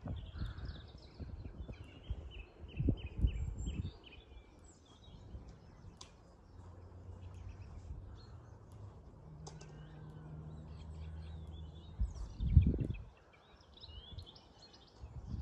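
Small birds chirping and calling on and off over gusts of wind rumbling on the microphone, the strongest gust about two thirds of the way through. A low steady hum runs underneath through the middle.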